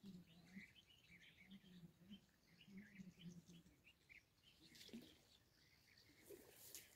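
Faint bird chirps, many short high calls scattered over near silence, with a few soft clicks near the end.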